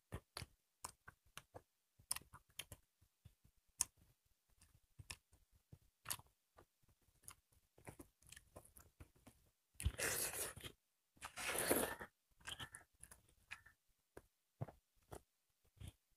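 Close-miked eating sounds: chewing, lip smacks and small mouth clicks from people eating rice and dried buffalo meat (sukuti) by hand. Two louder, longer crunchy bursts of noise come about ten and eleven and a half seconds in.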